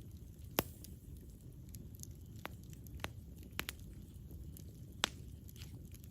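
Campfire burning: a low steady rumble of flames with sharp wood pops and crackles, about half a dozen clear pops among fainter ticks, the loudest about half a second in and another about five seconds in.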